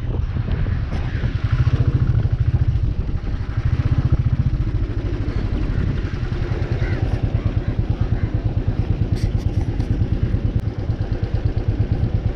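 Royal Enfield 350 single-cylinder motorcycle engine running at cruising speed, with its exhaust beat coming through as a fast, even pulsing.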